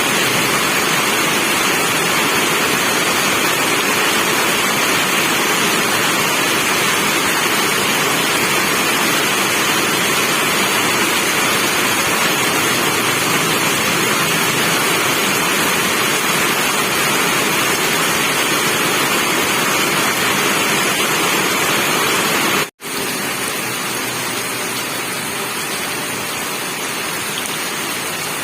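Steady rain, an even hiss with no other sounds in it. It cuts out for an instant about three-quarters of the way through and comes back a little quieter, like a splice between two recordings.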